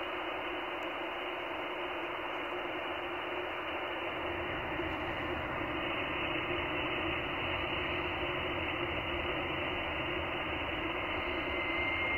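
Shortwave radio receiver hiss: steady band noise from the 15 m (21 MHz) amateur band, heard through the receiver's narrow sideband filter, which cuts off everything above about 3 kHz.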